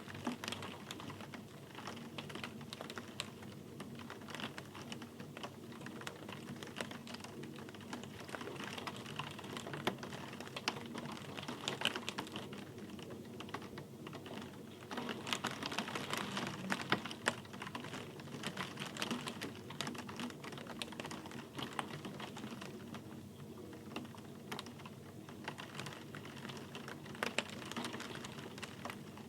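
Steady rain, with many close drops ticking irregularly on a hard surface.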